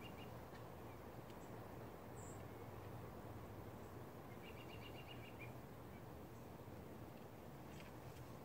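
Quiet outdoor ambience with a steady low rumble. A small bird gives a short, rapid trill of about eight high notes about four and a half seconds in, and a single high chirp comes about two seconds in.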